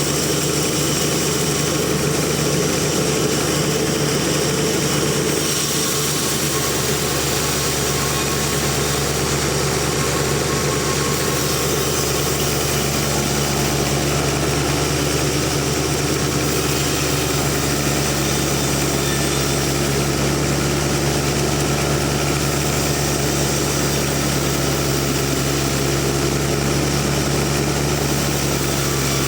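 Band sawmill machine running steadily with a continuous engine-like drone, its tone shifting slightly a few seconds in and again near the middle.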